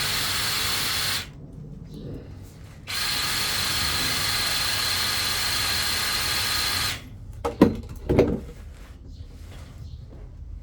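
Electric drain-cleaning machine's drill-like motor spinning a root cutter in two runs, a steady whine that starts and stops abruptly. It is followed by two sharp knocks.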